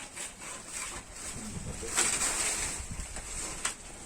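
A dove cooing, with a brief rustle about two seconds in.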